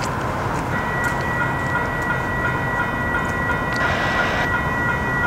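CP potash freight train running past with a steady rumble. About a second in, a high ringing starts, pulsing about three times a second over a steady high tone.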